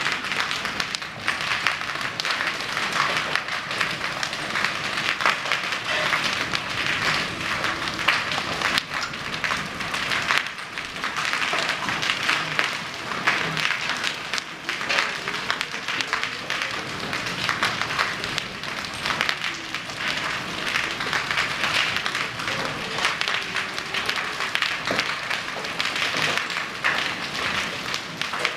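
Hailstones pelting down hard: a dense, continuous clatter of countless small impacts.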